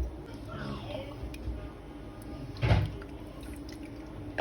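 Marinated honey mushrooms being ladled from the pot into glass jars: liquid dripping and splashing, with one louder clatter about two and a half seconds in.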